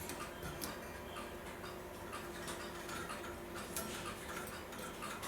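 Steady ticking of a clock, about three ticks a second, with a few irregular light metallic clicks from small clock parts being handled.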